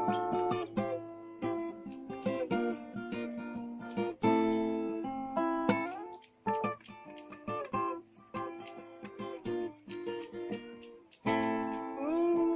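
Acoustic guitar strumming and picking chords, each left to ring, with a few sliding notes between them.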